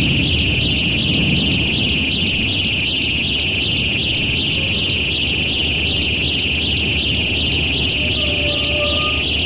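Train noise from a railroad sound record. A steady high-pitched squeal with a fast, even flutter sits over a low rumble, and a brief low tone, like a distant horn, sounds near the end.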